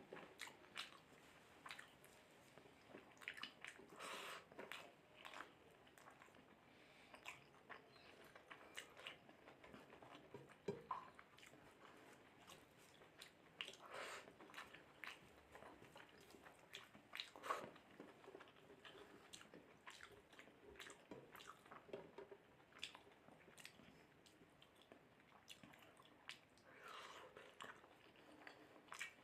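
Faint, irregular chewing and mouth sounds of a person eating mutton curry with rice, with scattered short clicks.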